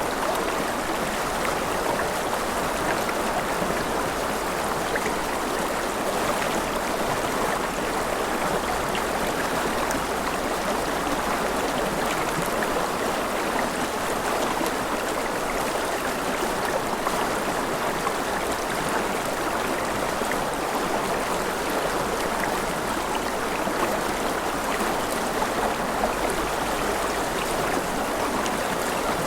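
Forest river flowing steadily over rocks, a constant rushing with bubbling.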